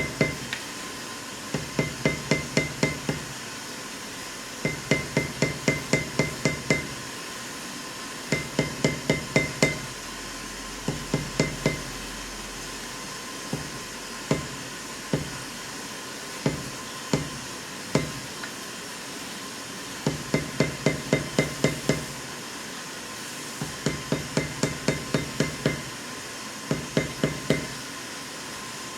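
Leather stamping: a metal stamping tool struck with a mallet in quick runs of taps, about five a second. Each run is several strikes long with short pauses between runs, and single spaced taps come around the middle. Each strike rings briefly.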